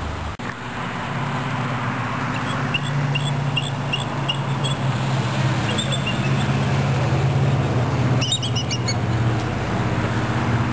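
A bird calling in three quick runs of short, high chirps, set over a steady rushing background noise.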